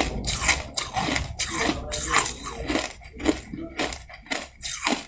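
Soft crushed ice being chewed: a quick run of crunches, about two to three a second.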